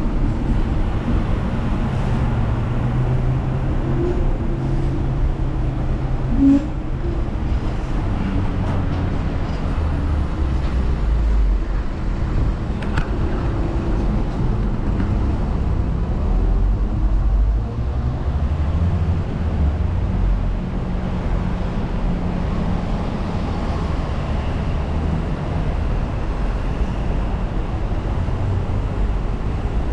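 Hong Kong double-decker tram running along its street track: a steady low rumble of wheels and motor with road traffic around it, and a brief louder sound about six seconds in.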